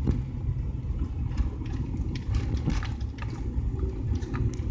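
Car interior while driving: a steady low rumble of engine and road noise, with scattered light clicks and rattles.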